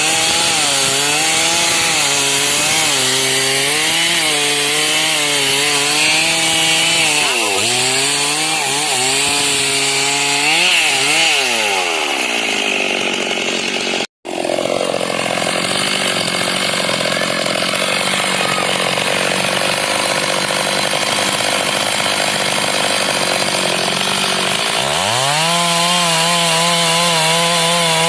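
Stihl MS 382 two-stroke chainsaw cutting through wood, its engine pitch wavering as it works under load, then falling away about 12 seconds in. After a brief dropout it runs at a steadier, lower speed, then revs up about 25 seconds in and holds at high speed.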